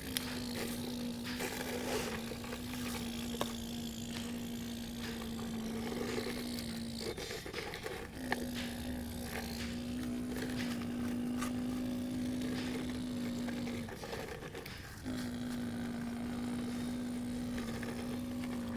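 Radio-controlled model excavator's electric motor whining at a steady pitch, cutting out twice for about a second and starting again, with scattered small clicks.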